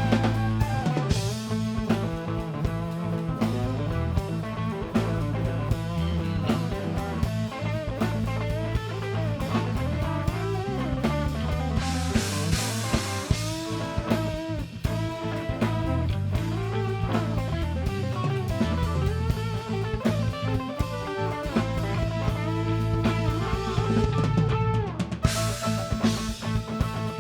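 Rock band playing an instrumental passage: drum kit with rimshots and cymbal crashes, electric guitar lines and a steady bass, with two big cymbal swells about halfway through and near the end.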